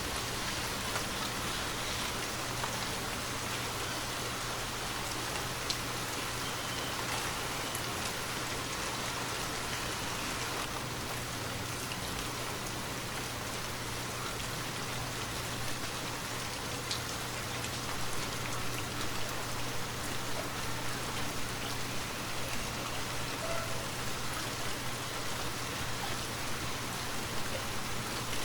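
Steady rainfall, with a few louder individual drops ticking through it; the patter grows a little more uneven about two-thirds of the way in.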